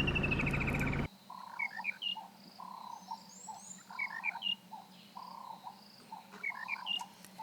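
Vehicle noise until about a second in, then cuts off sharply. After that, a repeating group of animal calls: a short, steady low note followed by quick rising chirps, about every two seconds.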